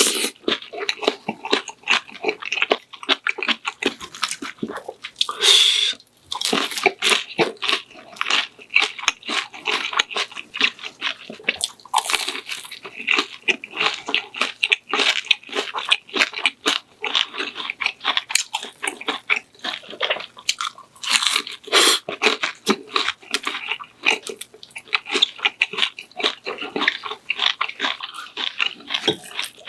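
A person chewing and crunching food close to the microphone: many quick, irregular crisp bites and wet mouth sounds, with no talking.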